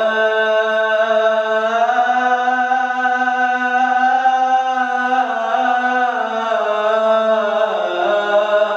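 A man singing one long, held, ornamented note in the style of an Arabic mawwal on "ya leil". The note wavers slightly and steps down in pitch near the end.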